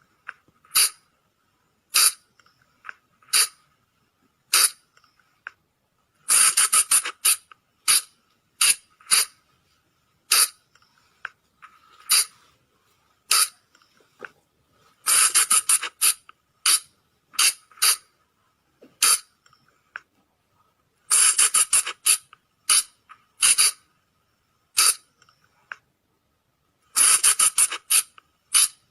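Sunda flying lemur (colugo) calls played as a lure: sharp, high squeaking calls. Single calls come a second or so apart, broken four times by quick runs of several calls in a row.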